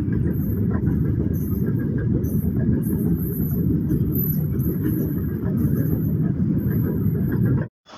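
Train passing on the line, a steady low rumble of the wheels and wagons running by, cut off suddenly near the end.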